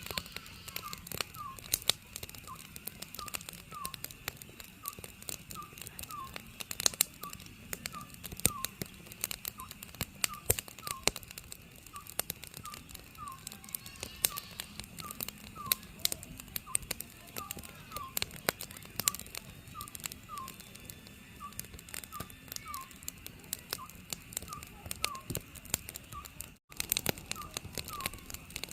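Oriental scops owl calling over and over, short falling hoots in pairs about once a second, over a crackling wood fire with frequent sharp pops. The sound cuts out for an instant near the end.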